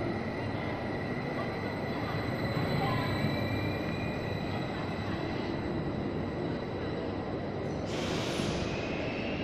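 Regional multiple-unit train running past close by as it pulls out along the platform: a steady rumble with a thin, steady high whine. A short hiss comes about eight seconds in.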